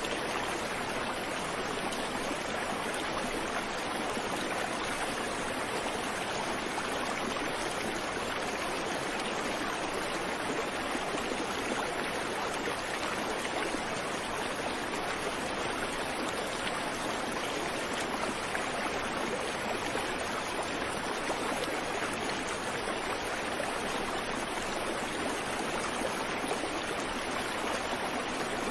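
A creek or small river running steadily over rocks, an even rushing and babbling of water with no birds.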